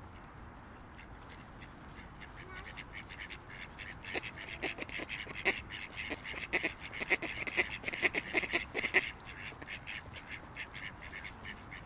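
Ducks quacking over a steady outdoor background hiss. The calls come in quick, overlapping runs and are busiest and loudest from about four to nine seconds in, then thin to the odd call near the end.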